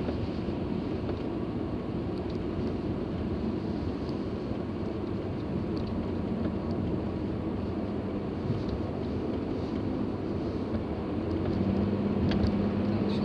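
Car driving: steady engine and road noise, with a low hum throughout, a little louder near the end.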